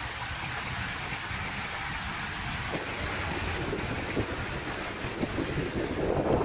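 Strong storm wind rushing and buffeting the microphone, with a steady low rumble, growing louder near the end.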